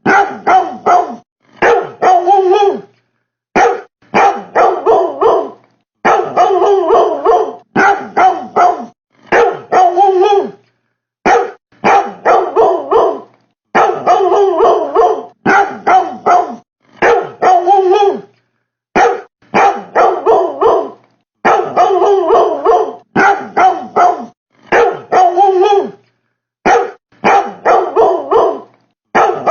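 A dog barking over and over in quick runs of several barks, with short silent breaks between the runs.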